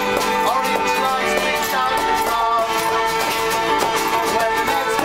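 Live folk music: a group playing acoustic instruments, with voices singing.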